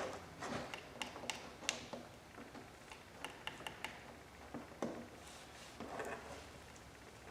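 Scattered light clicks and taps of wires and clip leads being handled, with a quick run of small ticks partway through. No motor running is heard.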